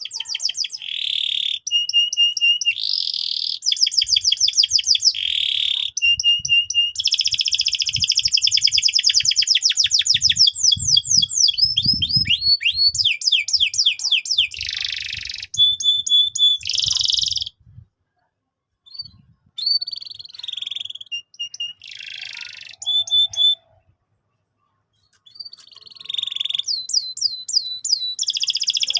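Domestic canary singing a long, varied song of fast trills and rapidly repeated notes, with two short pauses in the second half.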